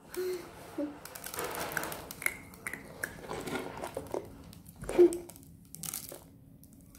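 Close-up crunching and crackling of a child chewing candy sprinkles eaten off her lips, with a few short hums from her mouth.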